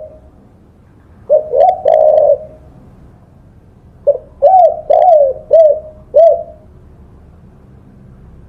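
Spotted dove (tekukur) cooing: a three-note phrase about a second in, ending on a longer note, then a five-note phrase a few seconds later, each coo rising then falling in pitch.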